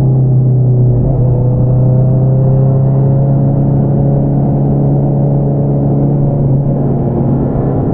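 Honda CBR650R's inline-four engine through an Akrapovič single-outlet exhaust, running steadily under way at moderate revs. There is a brief break in the note about a second in, after which it settles slightly lower and holds steady.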